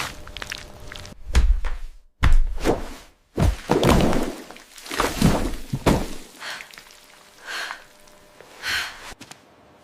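AI-generated food ASMR sound effects: a series of dull thunks and knocks, about eight or nine, cut off abruptly between some of them. The later ones are fainter, with a slight ringing tone.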